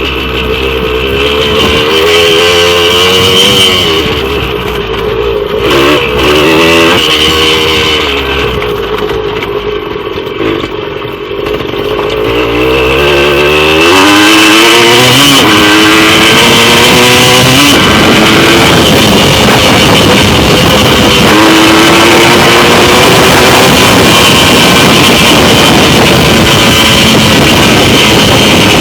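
Yamaha MX175 two-stroke single-cylinder dirt bike engine being revved, its pitch rising and falling repeatedly for about the first dozen seconds. After that the engine is held loud and steady at high revs.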